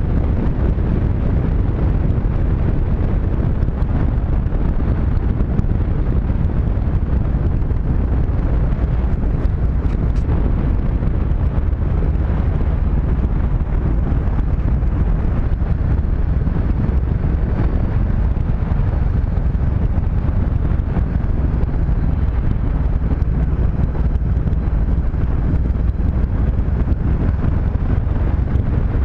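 Steady wind rush on the camera microphone of a moving motorcycle, with the Honda CB500X's parallel-twin engine running underneath at a steady speed.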